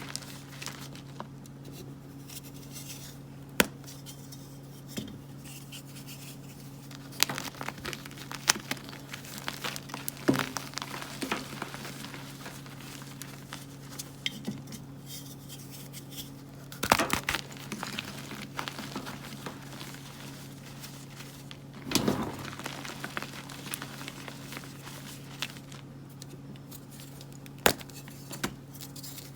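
Plain gym chalk blocks being crunched and crumbled by hand: scattered crisp crackles and crumbles, with several sharper snaps spaced a few seconds apart.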